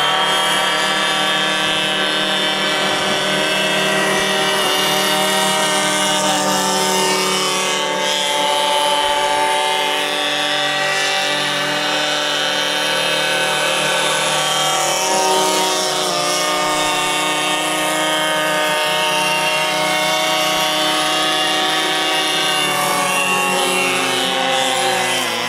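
RC airboat's inline model engine running with its propeller. It holds a steady drone whose pitch drifts a little up and down as the throttle is worked, and it dips slightly near the end.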